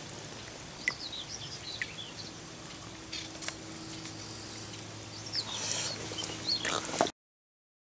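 Birds chirping and calling outdoors, short high chirps and quick whistled glides scattered throughout, over a faint steady low hum. The sound cuts off suddenly about seven seconds in.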